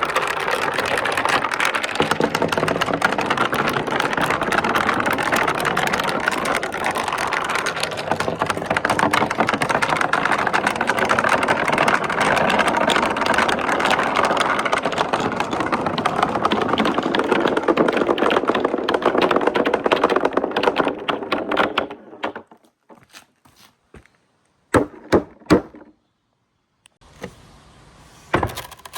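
Marbles rolling and clattering down a marble run track in a steady rattle that lasts about twenty seconds. Then it stops, leaving a few separate clicks near the end as the last marbles come to rest.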